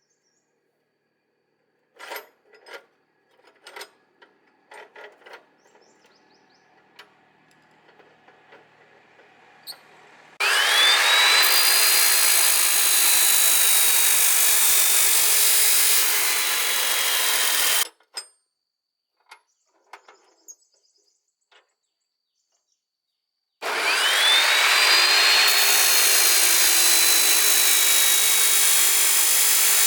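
A handheld power tool runs twice, for about seven seconds and then again near the end, over a harsh hissing noise. Each time its motor whine climbs quickly as it spins up, then sags slowly as it works. Light taps and clinks of metal tools come before and between the two runs.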